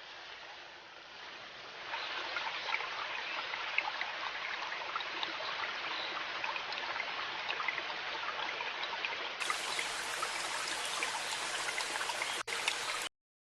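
River water flowing and babbling, a steady rushing hiss with small splashes. It grows louder about two seconds in, drops out for an instant near the end, then cuts off abruptly.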